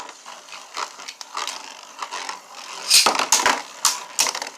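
Two Beyblade spinning tops clashing, a run of sharp clicks and knocks with a loud flurry of hits about three seconds in.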